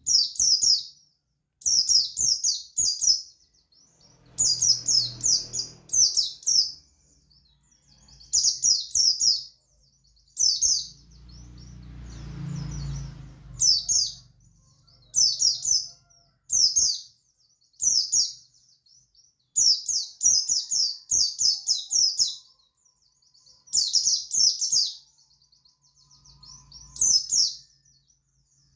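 Pleci buxtoni white-eye singing its long 'ngalas' song: phrases of rapid, high twittering notes, each a second or two long, repeated with short pauses.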